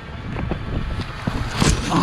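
KTM four-stroke enduro dirt bike running, buffeted by wind on a helmet-mounted camera, with irregular knocks.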